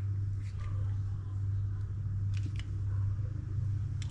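A steady low hum with a few faint, light clicks of small reel parts and tools being handled.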